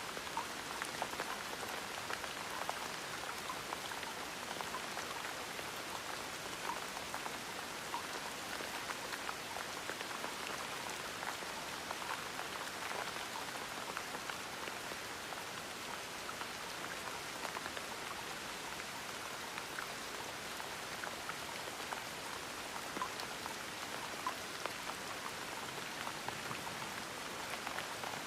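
Steady gentle rain falling, an even hiss dotted with many small drop ticks.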